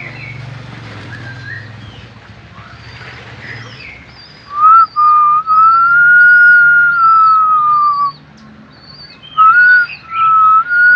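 A loud, long whistled tone, rising slightly then falling, held for about three and a half seconds, then starting again near the end. Short high chirps repeat above it, and softer bird calls fill the first few seconds.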